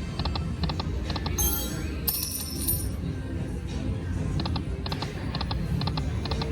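Timber Wolf Triple Power video slot machine spinning its reels: repeated clusters of quick ticks, with bright electronic chimes about a second and a half in and again around two to three seconds in, over the steady hum of a casino floor.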